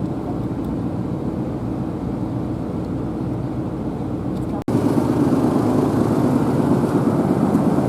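Steady rumble of a vehicle driving along a road. About halfway through it cuts out for an instant and comes back louder.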